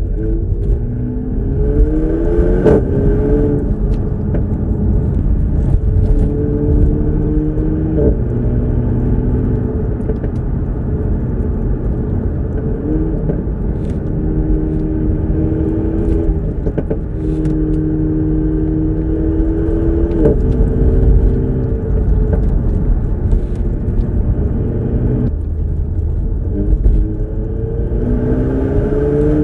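Renault Megane RS 300's turbocharged 1.8-litre four-cylinder engine and exhaust driven hard. The revs climb repeatedly and drop sharply at gear changes and lifts, over a steady low road rumble.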